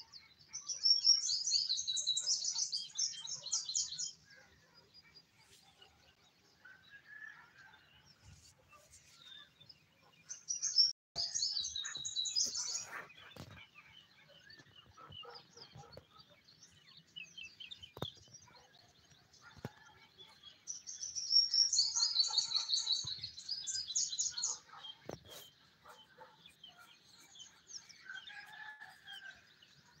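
Birds calling: a high, rapid chattering trill that comes in three long bouts about ten seconds apart, with fainter scattered calls between them.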